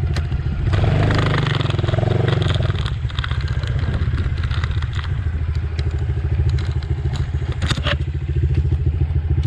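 Dirt bike engine idling with a steady, rapid pulse, louder and rougher for a couple of seconds about a second in, with a few sharp clicks over it.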